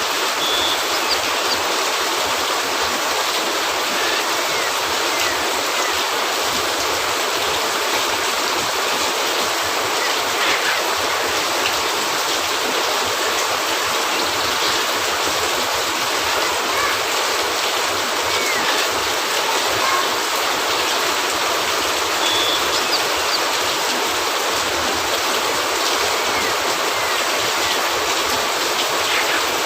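Steady rain on a cabin roof, an even hiss with a few faint ticks.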